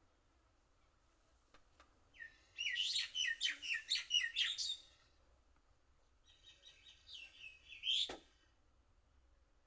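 A small bird singing two quick, twittering phrases of rapid high notes, the first about two seconds in and a shorter, quieter one about six seconds in, followed by a single sharp click.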